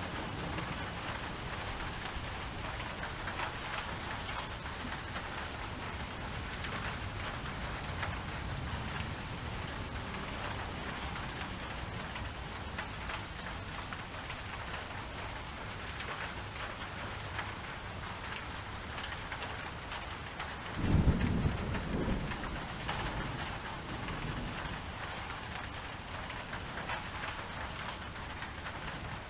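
Steady rain falling, with a roll of thunder rumbling low about two-thirds of the way through.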